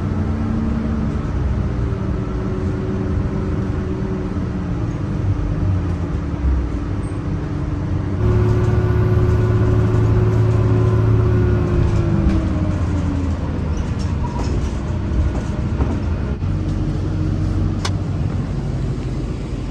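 City bus engine running with road noise. It grows louder about eight seconds in, and the engine note drops away a few seconds later, as when the bus accelerates and then eases off. A sharp click comes near the end.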